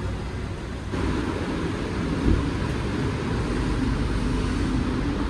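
Car running on the road, a steady low rumble of engine and tyre noise that gets louder about a second in, with one short thump a little over two seconds in.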